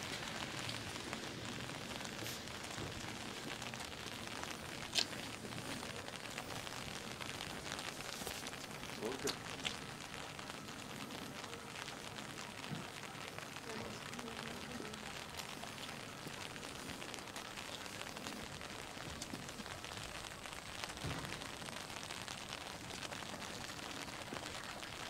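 Steady patter of light rain on wet surfaces, with a few sharp ticks and faint voices of people in the background.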